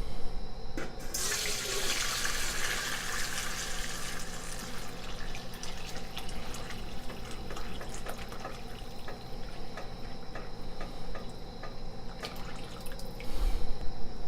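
Homemade chicken stock poured from the pot through a fine mesh strainer: a heavy pour starts about a second in and eases off after a few seconds into a thin trickle and drips.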